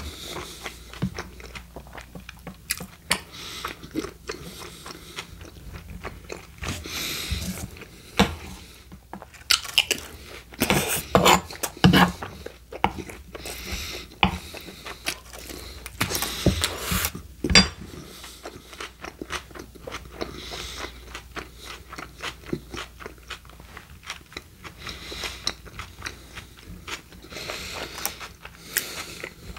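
Close-miked chewing of a mouthful of steak burrito: wet mouth clicks and smacks, with louder, busier stretches about a third of the way in and again just past halfway.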